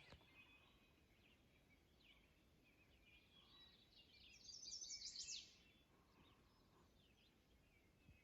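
Faint songbirds calling in the woods, with one rapid, high trill lasting about a second a little past halfway through.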